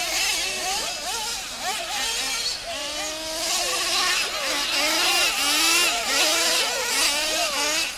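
Several radio-controlled monster trucks racing, their motors revving up and down in overlapping rising and falling whines.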